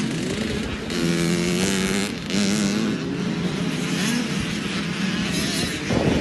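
Motocross bike engines revving, the pitch rising and falling as the throttle opens and closes.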